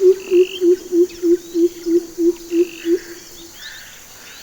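Greater coucal calling its deep series of hoots, about three a second, dropping a little in pitch as it goes and stopping about three seconds in. Other birds chirp faintly in the background.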